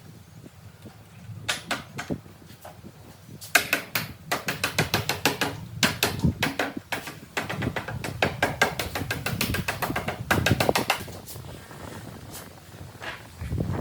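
A rapid, irregular run of sharp knocks and taps, several a second, starting about a second and a half in and thinning out near the end, over a faint low hum.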